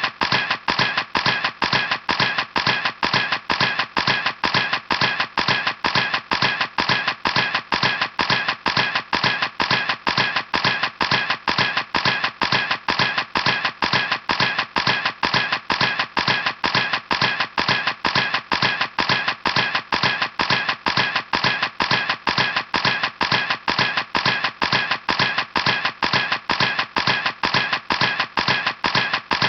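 A camera clicking over and over at an even pace, about three sharp clicks a second, every click alike.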